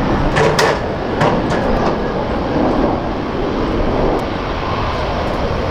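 Jet aircraft engine noise: a loud, steady rumble with a few short clicks in the first second or so.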